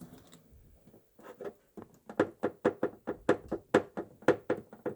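Loose panoramic-roof drain tube on the right rear of a Volkswagen ID.4 knocking against the body as it is touched, a quick run of short knocks about four a second, starting about a second in. This is the source of the tapping that owners hear from the rear wheel arches and boot over bumps.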